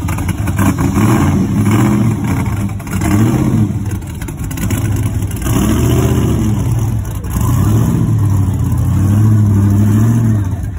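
A car engine being revved over and over, its pitch rising and falling about five times, then held up for a couple of seconds near the end.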